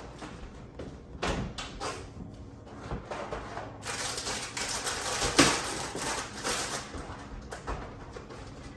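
Household handling sounds: scattered knocks and clicks, with a longer stretch of rustling in the middle and one sharp click within it.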